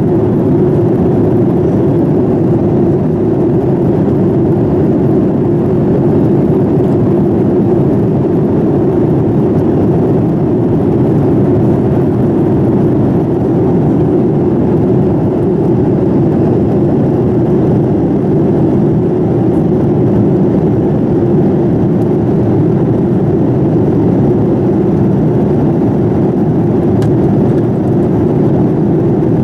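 Steady, unchanging engine and airflow noise heard inside the passenger cabin of a Boeing 787-9 airliner.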